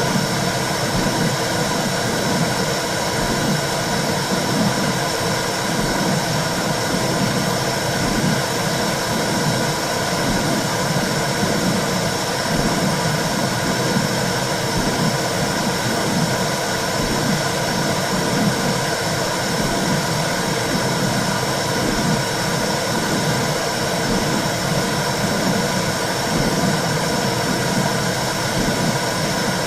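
Womb-sound track for soothing a baby: a steady rushing noise with a low whooshing underneath that keeps swelling and fading.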